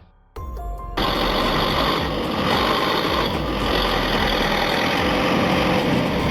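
Tractor engine running hard and loud, a steady rough rush of engine noise, cutting in about a second in after a brief gap.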